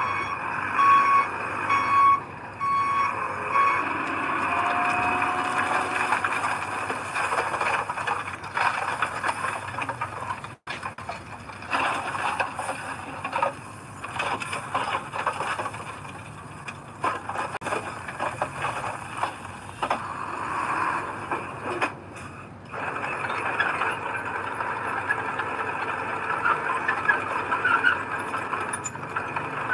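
Diesel heavy earthmoving machinery (dump truck and bulldozer) running and working. A reversing alarm beeps in an even rhythm for the first few seconds, then stops. The engine noise carries on with rattles and squeals, briefly cut off a little before halfway.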